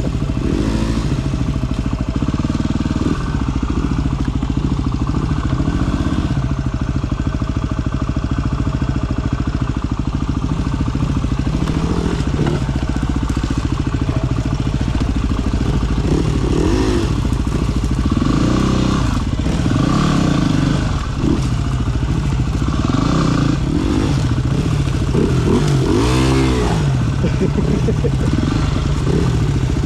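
Single-cylinder trail motorcycle engine under way off-road, revving up and down again and again as the throttle is worked.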